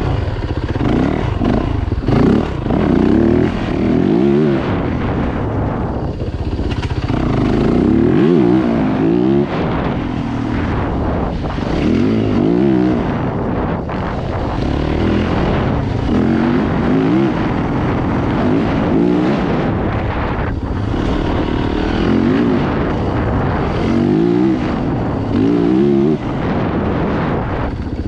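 Dirt bike engines revving hard and shifting through the gears, the pitch climbing and dropping back again and again.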